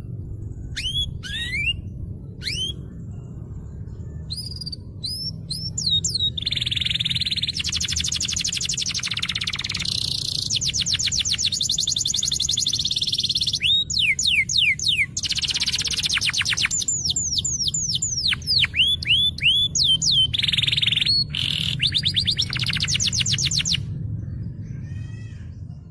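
Domestic canary in full song: bursts of quick downward-sweeping whistled notes alternating with long, very rapid trills. A steady low hum sits under the song.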